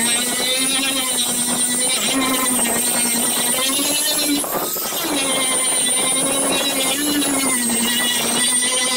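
Power grinder running steadily with a high whine, its pitch sagging and recovering several times as it is bore down into the work.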